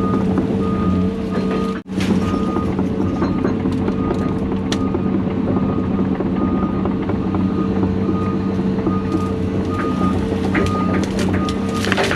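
Heavy diesel equipment running steadily while its backup alarm beeps, a little under twice a second. The sound drops out abruptly for an instant about two seconds in. A few sharp cracks come near the end.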